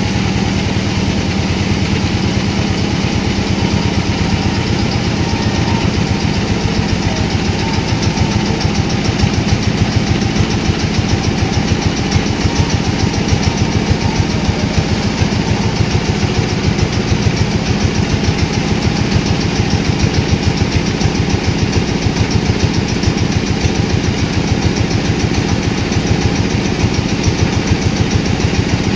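Sawmill's engine running steadily with an even, rapid pulsing.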